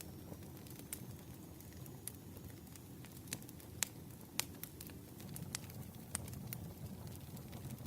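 Campfire burning: a low steady rumble of flames with irregular sharp crackles and pops from the burning wood, a few of them louder.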